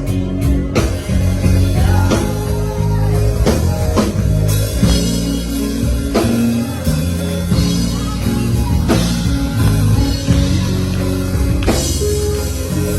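Live church band music with drum kit, bass and guitar playing a steady beat, faint singing in the mix.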